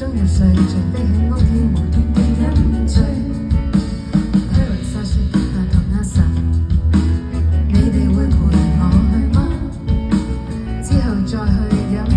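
Band playing a song, with a singer's voice over guitar and a heavy bass line.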